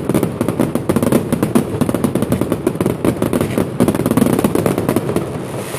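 Fireworks display: a dense, rapid barrage of bangs and crackles, many per second, that eases off near the end.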